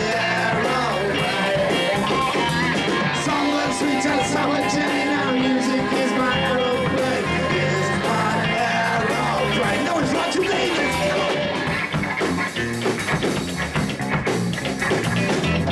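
Live rock band playing an instrumental passage with guitar to the fore. About twelve seconds in the playing turns choppier.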